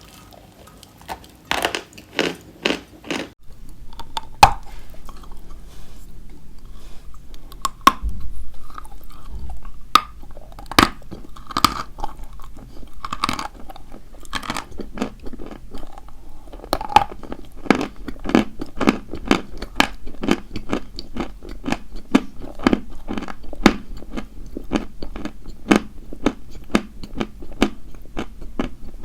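Dry white chalk being bitten and chewed close to the microphone, with sharp crisp crunches. A few separate loud bites come near the start, then steady chewing settles to about two crunches a second.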